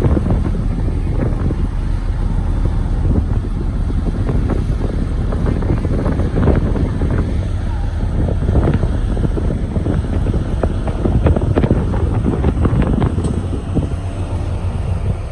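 Heavy diesel construction machinery running with a steady low rumble, with wind buffeting the microphone and irregular knocks and clatter over it.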